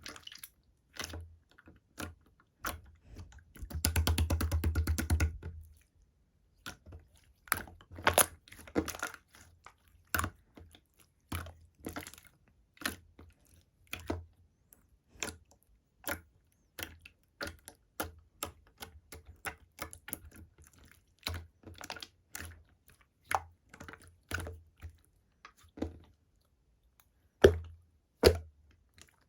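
Slime being played with by hand, making irregular small sharp clicks and pops as it is pressed and squeezed. About four seconds in there is a quick run of pops lasting over a second.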